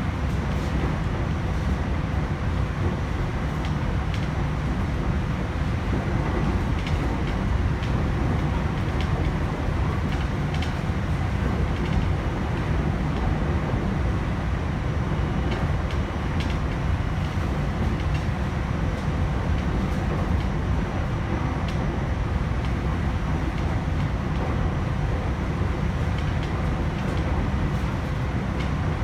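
Running noise inside a JR E129-series motor car at steady speed: a loud, even low rumble of wheels and running gear, with faint steady tones and scattered light ticks over it.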